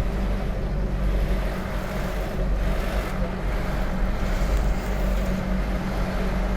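A vehicle engine running, a steady low rumble with a faint hum, while the vehicle moves slowly in a traffic queue.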